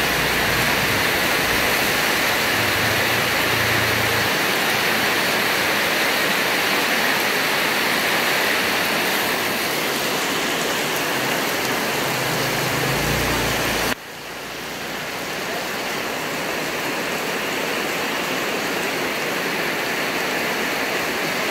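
Heavy rain pouring down, a dense, steady hiss. A low rumble comes in near the start and again around twelve seconds in, and about fourteen seconds in the sound drops suddenly, then builds back up.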